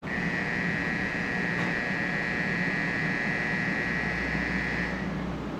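500 Series Shinkansen pulling slowly into the platform, a steady high whine over a low rumble. The whine cuts off about five seconds in, and a deeper hum comes in shortly before.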